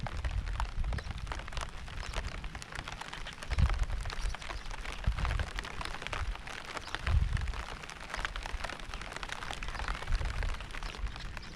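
Steady rain with many close individual drops ticking, and low rumbles that rise and fade several times underneath.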